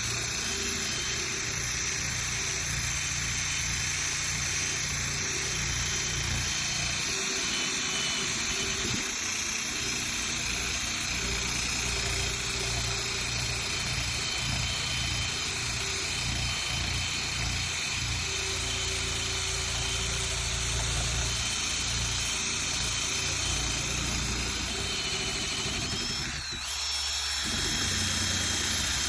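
Electric power sander running against the painted metal of a car hood, a steady high motor whine over a rough grinding scrape. Near the end the scraping briefly drops out and the whine steps up in pitch as the load comes off, then it carries on.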